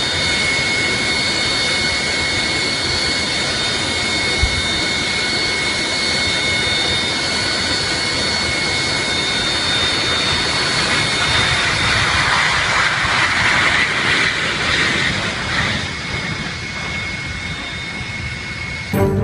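Jet engine noise: a steady loud rush with high-pitched turbine whine tones held throughout, swelling a little about two-thirds of the way through.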